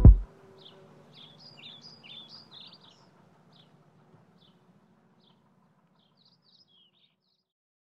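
Background music cutting off right at the start, then faint chirping bird calls over a low hum, both fading out near the end.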